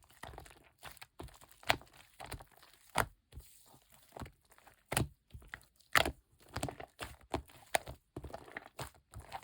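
Shaving-foam slime being squeezed and folded by hand, giving irregular sharp pops and clicks with softer crackling between them, several loud pops about a second apart.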